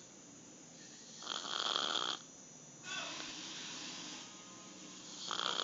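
A dog snoring: a loud snore about a second in and another near the end, with a quieter breath between them.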